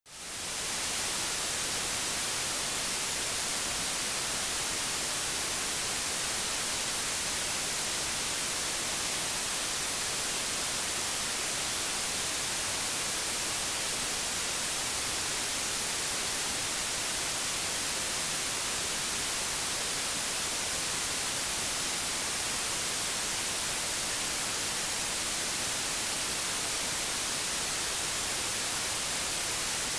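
Old television static: a steady, even hiss, brightest in the high end, that fades in over about the first second.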